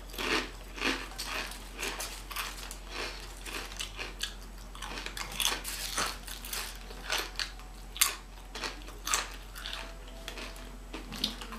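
A person chewing crunchy chips close to the microphone: irregular crisp crunches, a few a second.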